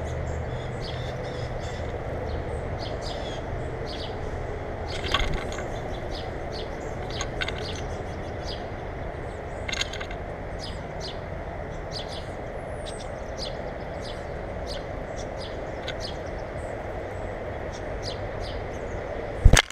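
Small birds chirping repeatedly, with short high calls scattered throughout over a steady background hum. A sharp knock sounds just before the end.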